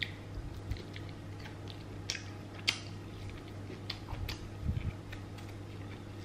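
Close-miked eating sounds: irregular sharp mouth clicks and smacks of chewing fried chicken, with a steady low hum underneath.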